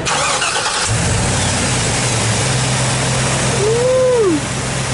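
A vehicle engine idling steadily, its low hum cutting back in about a second in. About four seconds in, a short tone rises and falls in pitch over it.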